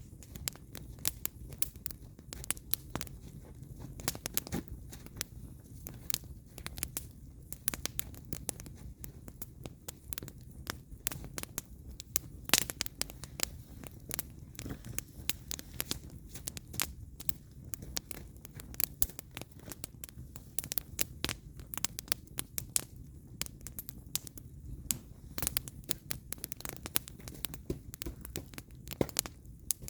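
Firewood burning in a campfire, crackling and popping: a steady stream of irregular sharp snaps over a low, steady rumble of the flames, with one louder pop near the middle.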